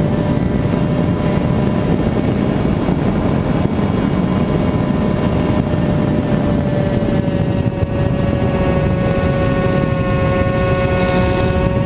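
Radio-controlled model airplane's motor and propeller running at a steady pitch under heavy wind rush on the microphone; the tone sinks slightly and its overtones grow clearer after about seven seconds.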